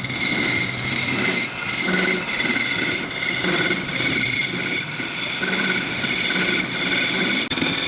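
Metal lathe running and cutting, a steady machine whine with a level that swells and drops about once a second.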